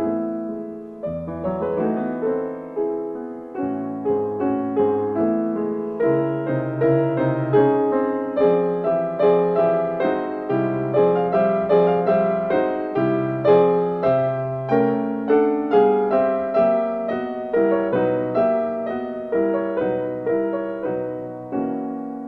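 Background piano music: a gentle melody of evenly paced notes, about two to three a second, over lower bass notes, fading near the end.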